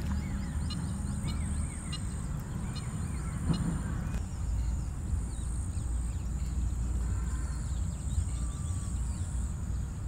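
Outdoor field ambience: faint short bird chirps scattered over a steady low rumble and a constant high hiss, with one brief louder knock about three and a half seconds in.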